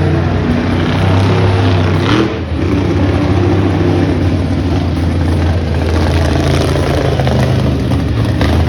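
Monster truck engine running hard and revving during a wheelie run, with a brief dip in level about two seconds in.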